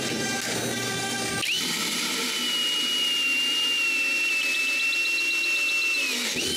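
Power drill boring a hole through plywood. About a second and a half in it jumps to a steady high whine, which winds down just before the end.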